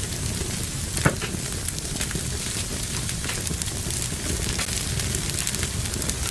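Wood fire burning in a fireplace, crackling with many small snaps and one louder pop about a second in, over a steady low rumble of the flames.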